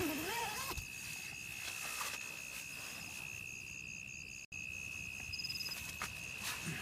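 Forest insects calling: one steady high-pitched trill held throughout, with rows of short, rapidly repeated chirps above it. A brief wavering call sounds at the start.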